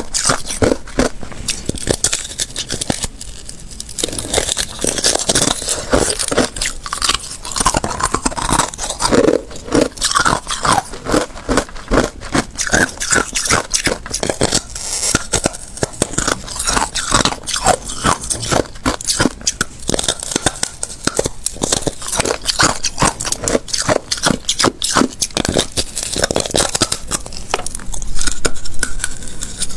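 Close-up crunching of thin ice being bitten and chewed, a rapid run of sharp cracks and crackles with scraping of ice fragments, going on without a break.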